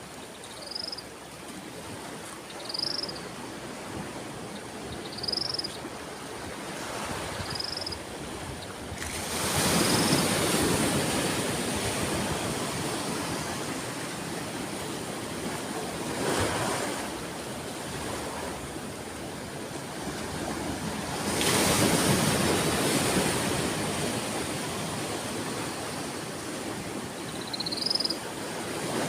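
Sea waves washing in, with bigger waves breaking about nine seconds in and again about twenty-one seconds in, and a smaller one in between. Short high chirps come every two seconds or so in the first third, and once more near the end.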